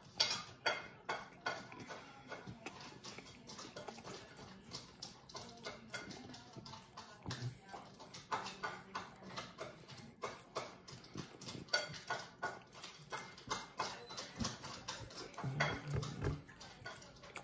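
Close-up chewing of crispy breaded teriyaki chicken: irregular mouth clicks and smacks, several a second.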